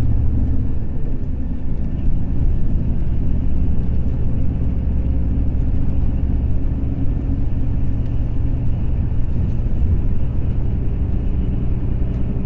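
Volvo B420R coach's rear-mounted diesel engine running steadily, a loud low drone that holds the same pitch throughout.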